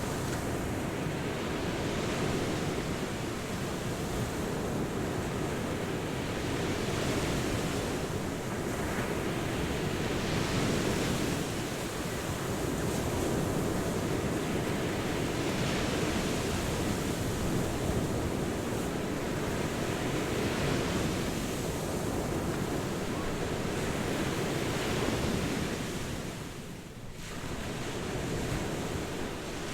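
Ocean surf: waves breaking and washing ashore in a continuous rush that swells and eases every few seconds, dropping off briefly near the end before the next wave comes in.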